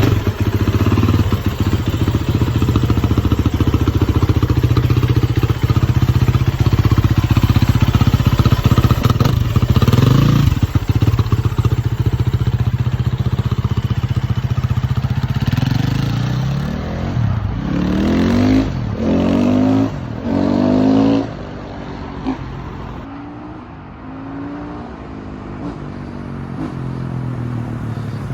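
KTM 350 EXC dirt bike engine running with a fast, even pulsing beat, then revved three times in quick succession about two-thirds of the way through, each rev rising and falling, before it settles back to a quieter, lower running note.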